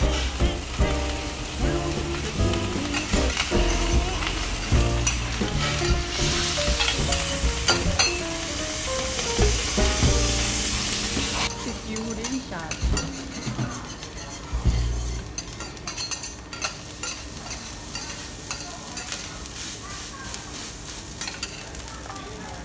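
Fried rice sizzling on a teppanyaki steel hot plate while metal spatulas scrape and tap the griddle in quick clicks, thickest in the second half. A tune with a stepping bass line plays over the first half.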